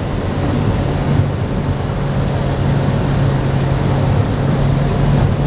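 Car driving at a steady speed: a steady low engine hum under road and wind noise.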